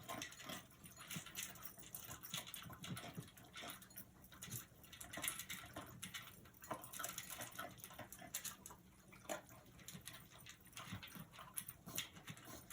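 A small dog eating dry kibble from a bowl: irregular, quick crunching and clicking as he chews and picks up the pieces.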